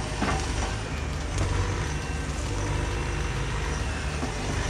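Compact excavator engine running steadily under work, with a few faint knocks.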